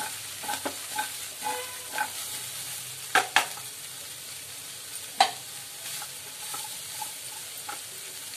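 Cauliflower florets frying in oil in a kadai, with a steady sizzle, while a wooden spatula stirs and scrapes them for the first two seconds or so. Two sharp knocks come a little after three seconds, and another about five seconds in.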